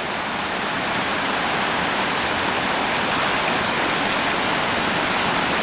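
Steady, continuous rush of whitewater from a river rapid.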